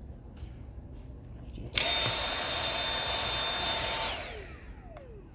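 Dyson V7 cordless stick vacuum's motor starting abruptly about two seconds in and running with a steady high whine for a couple of seconds, then switched off, its whine falling in pitch as the motor winds down.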